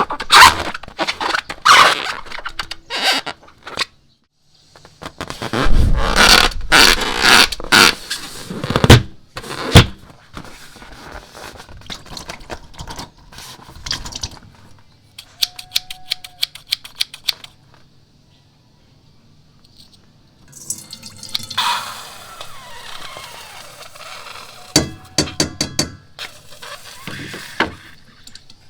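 Hands handling slime-making materials: irregular sticky clicks, taps, scrapes and squishes, with a quick run of sharp ticks about halfway through.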